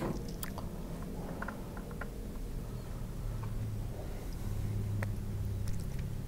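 A motor's steady low hum that grows louder past the middle, with a few faint clicks over it.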